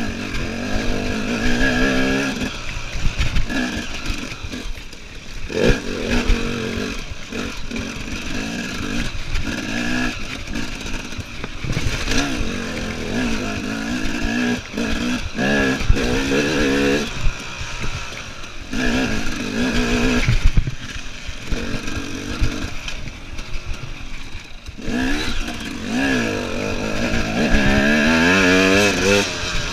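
KTM EXC enduro motorcycle engine revving up and dropping back again and again as the bike is ridden, its pitch rising and falling every few seconds with short lulls off the throttle. Sharp clattering knocks come through here and there.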